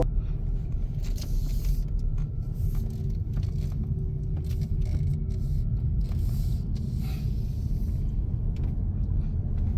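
Steady low rumble of a car driving along, with short hissing swells now and then.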